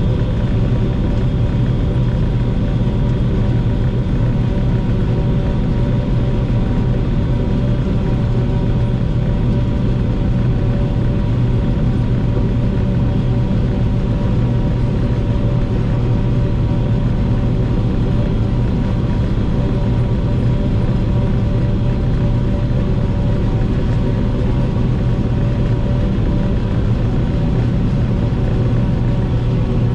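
Tractor engine running at a steady speed, a constant drone with no change in pitch or level.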